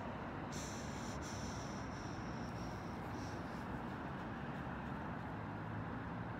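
Steady low rumble of a train at a station platform, with a faint high whine in the first couple of seconds.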